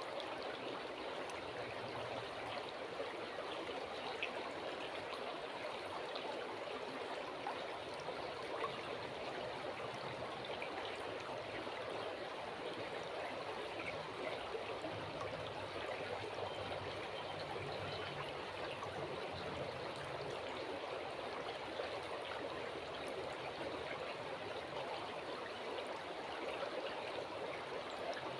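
Calm river flowing steadily, its water making a constant rushing, babbling sound with no change in level.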